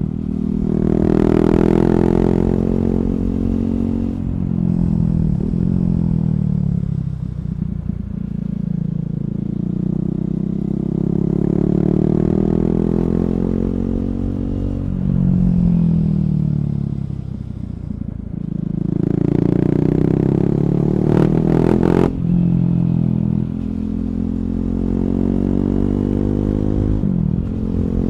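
KTM Duke 390's single-cylinder engine through an Akrapovic slip-on exhaust with the catalyst removed, pulling up through the gears and rolling off the throttle several times. A few sharp cracks come about three quarters of the way through.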